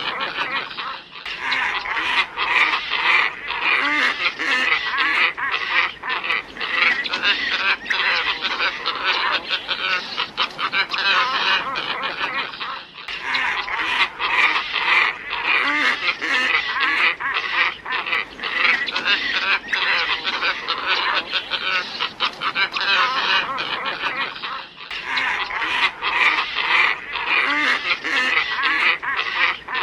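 Flock of glossy ibises calling continuously, a dense chorus of overlapping calls played as a bird-catcher's lure recording. The track loops about every twelve seconds, with a brief dip at each restart.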